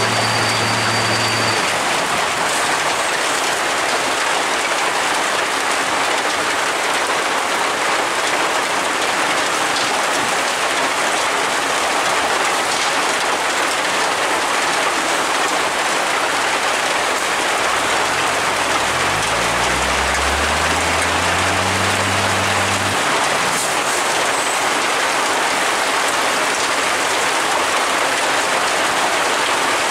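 Steady rain. A little past the middle, a vehicle engine's pitch rises for a few seconds, levels off briefly, then fades out.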